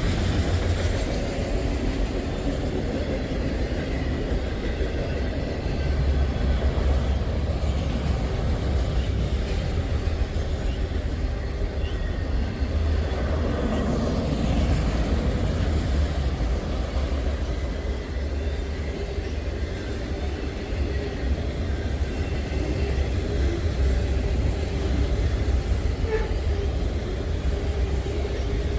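Norfolk Southern freight train cars rolling past, including auto racks: a steady rumble of wheels on rail.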